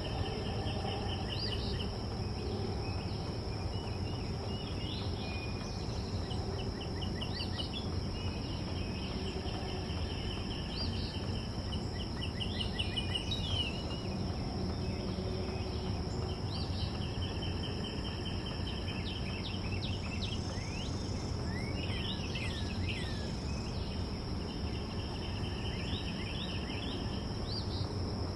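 Backyard ambience: a steady, high-pitched insect drone, with songbirds trilling in quick runs of repeated notes and giving a burst of falling chirps about two-thirds of the way through, over a low, even background rumble.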